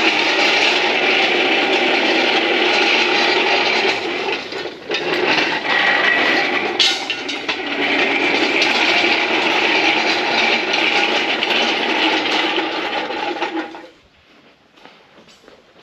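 Caster wheels of a shop engine hoist (cherry picker) rolling as it is pushed across the floor: a loud, steady rattling rumble that falters briefly about five seconds in and stops suddenly near the end, followed by a few faint clicks.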